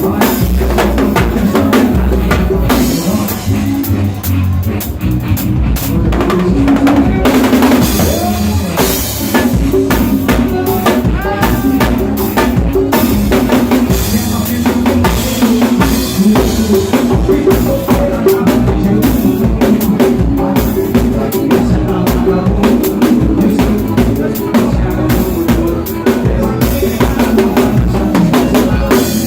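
A drum kit played along to a recorded song with a steady beat, the bass drum and snare carrying the rhythm over the backing track.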